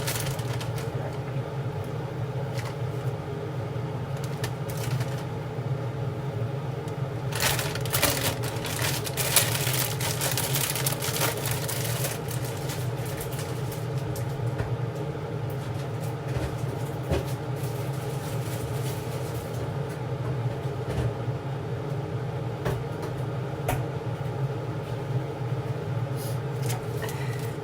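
Steady low mechanical hum of a running kitchen appliance, with a stretch of clicking and clatter about seven to twelve seconds in as cooking goes on.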